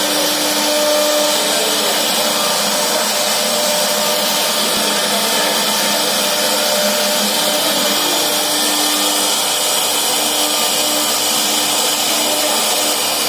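CNC router spindle running at speed and cutting a wooden door panel: a steady, high-pitched whine over a loud hiss.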